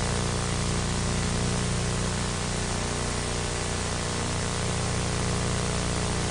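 Steady hiss with a low electrical hum underneath: the background noise of the recording, with no other sound.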